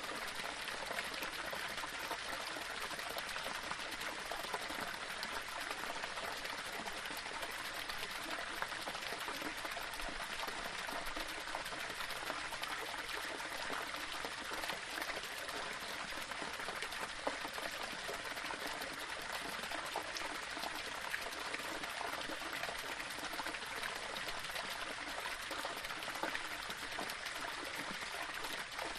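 Small waterfall splashing and trickling over stones: a steady rush of water with fine splashes throughout.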